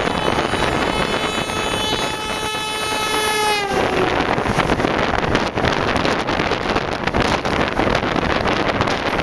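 An oncoming train's horn sounds one long blast that drops in pitch as the train passes, then cuts off about three and a half seconds in. The rush and rapid clatter of its carriages passing close on the next track follows, heard from inside a moving train with wind noise.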